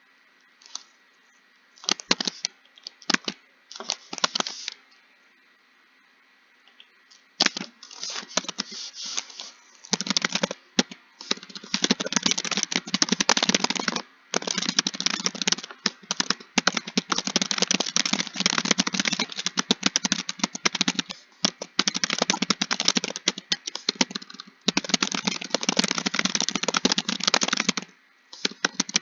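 Fast typing on a computer keyboard, a rapid run of key clicks. A few short bursts come in the first several seconds, then the typing runs almost without a break, with brief pauses.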